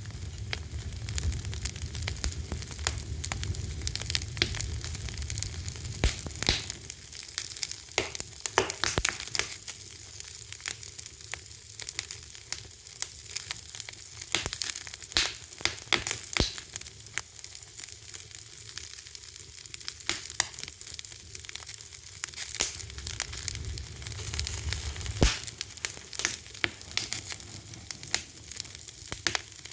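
Wood fire crackling: a steady hiss with many sharp pops and snaps, a few louder than the rest. A low rumble of the flames swells at the start and again near the end.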